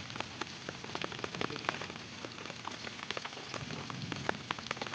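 Heavy rain falling steadily, with many irregular sharp ticks of drops striking close by.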